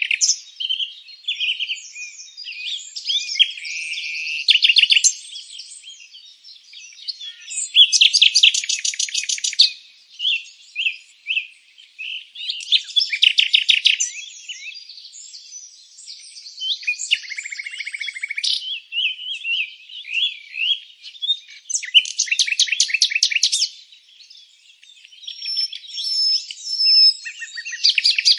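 Songbirds chirping and singing in overlapping high-pitched calls. Every few seconds a louder trill of rapid repeated notes comes in, four times in all.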